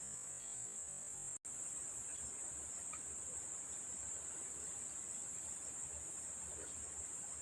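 Steady, high-pitched chorus of insects, crickets or cicadas, droning without a break; it cuts out for an instant about a second and a half in.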